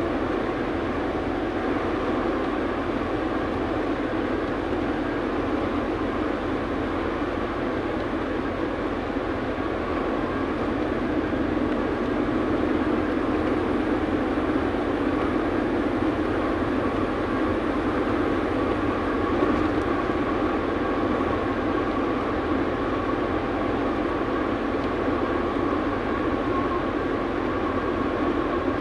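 Steady running noise of a truck: a constant rumble and hiss that holds level, with no sudden sounds.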